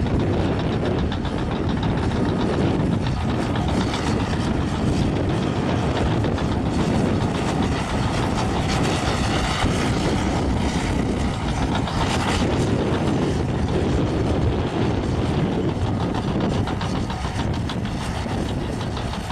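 Caterpillar crawler bulldozer at work: the diesel engine runs steadily under a dense clatter of steel tracks.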